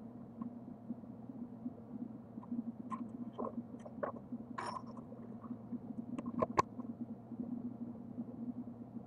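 A steady low hum, with a handful of light clinks and knocks from about three seconds in, a few sharper ones just after six seconds: aluminium parts being handled and positioned on the bench.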